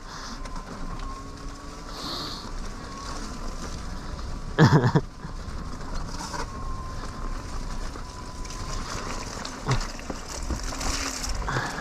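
Electric unicycle on the move over a rough forest track: a faint steady high whine over rumbling tyre and wind noise, with one brief loud burst about five seconds in.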